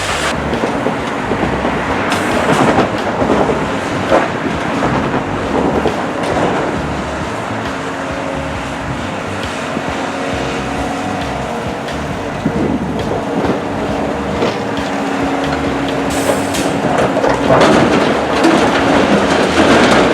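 Heavy construction machinery at work: a diesel engine running steadily under scattered metallic clanks and knocks.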